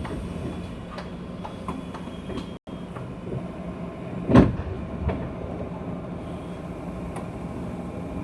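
Inside a JR West 201 series electric train car: a steady hum with a few even tones and scattered light clicks and rattles, and one heavy thump about four seconds in.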